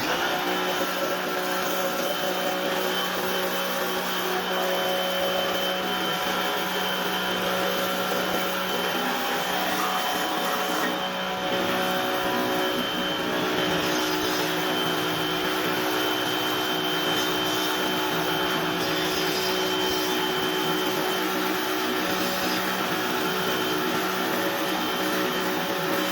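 Pressure washer running steadily: a constant motor hum over a continuous hiss, starting abruptly.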